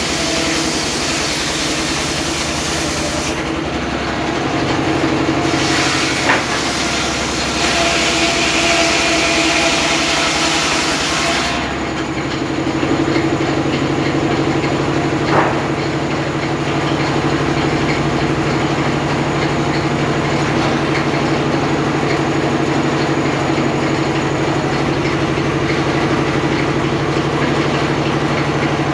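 Homemade engine-driven circular saw ripping teak: a loud hiss of the blade cutting wood over the engine's steady running, with a short break about four seconds in. The cutting stops about twelve seconds in, and the engine and blade run on steadily. Two sharp knocks come at about six and fifteen seconds.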